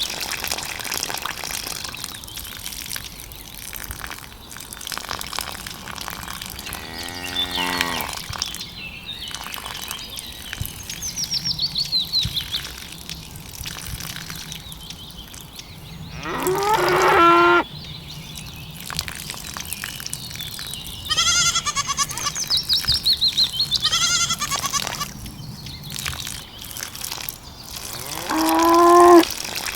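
Cattle mooing: three long moos spaced about ten seconds apart, with shorter, higher, pulsing calls in between.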